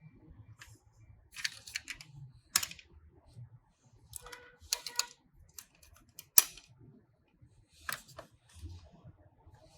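Sharp clicks and clatters of small diecast toy cars being handled, coming in several short bunches, the loudest about six and a half seconds in.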